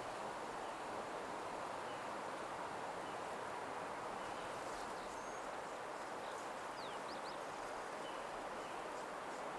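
Nature ambience: a steady soft rushing background with a few faint, short songbird chirps scattered through it, including a quick run of three sharp notes a little past the middle.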